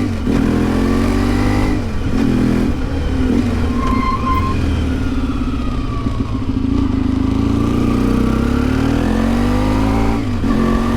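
A 1992 Yamaha XTZ 750 Super Ténéré's parallel-twin engine is under way on the road. The revs rise and fall, with brief drops in level near the start, about two seconds in and near the end.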